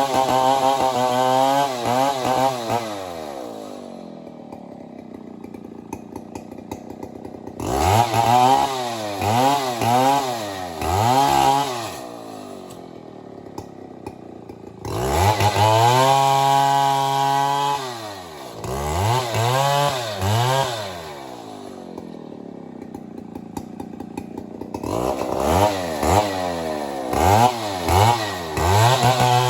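Large two-stroke chainsaw, a Stihl 070, revved in repeated short bursts and one longer held run, dropping back to a low idle between them.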